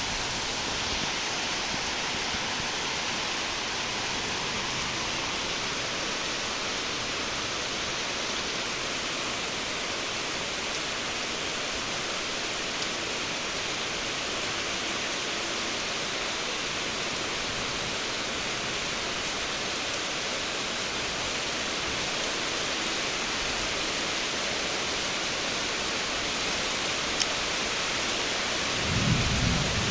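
Steady hiss of heavy rainfall. A low rumble of thunder starts near the end.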